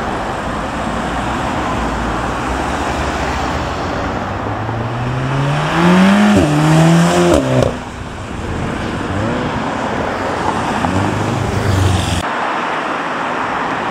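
A car accelerating hard past, its engine note climbing, dipping at a quick upshift and climbing again before it fades away, over steady road traffic noise.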